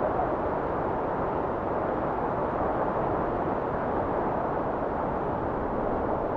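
Steady blizzard wind: a dense, even rush with no gusts or breaks, sitting low to middle in pitch with little hiss on top.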